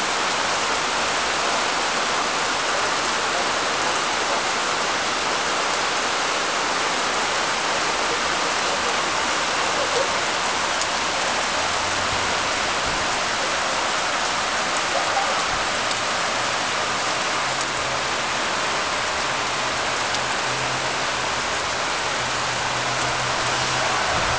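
Heavy rain falling steadily on trees, street and pavement: an even, unbroken hiss.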